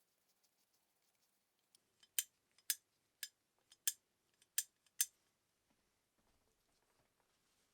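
Six sharp, light clicks, about half a second apart, from roughly two to five seconds in, from small metal tools or parts being handled.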